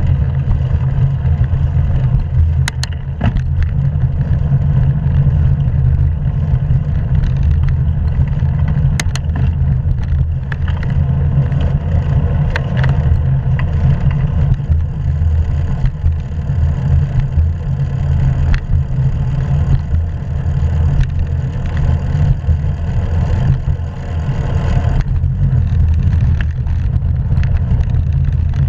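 Low, steady rumble of wind and road noise on an action camera carried on a moving bicycle, with a couple of sharp clicks.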